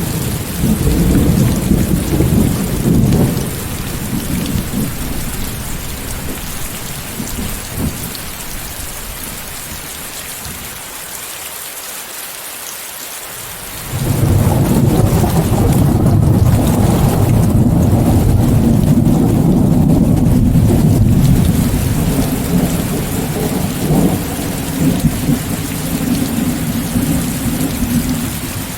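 Steady rain with rolling thunder, mixed with white noise. A thunder rumble in the first few seconds fades away, then about halfway through a loud new rumble breaks in suddenly and rolls on for several seconds before easing off.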